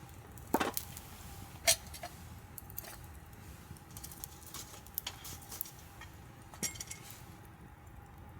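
Scattered light clinks and knocks of metal gear being handled, a few of them ringing briefly, the loudest two in the first two seconds.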